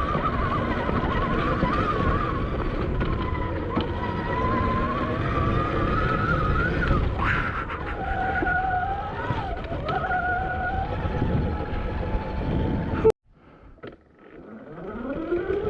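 Admitjet Armor electric dirt bike's motor whining, its pitch shifting with speed, under heavy wind noise on the action-camera microphone and trail noise. About 13 seconds in the sound drops out suddenly, then the motor whine rises steadily in pitch as the bike speeds up again.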